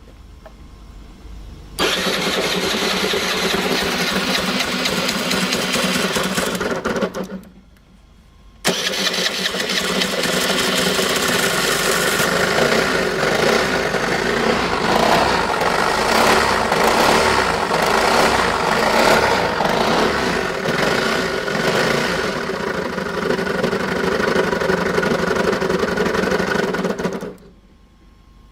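Suzuki Address V50 (CA44A) scooter's small single-cylinder engine started, run for about five seconds and stopped, then started again and run for about twenty seconds with some revving in the middle. It is making abnormal noise from a faulty engine, with worn crankshaft bearings the suspected cause.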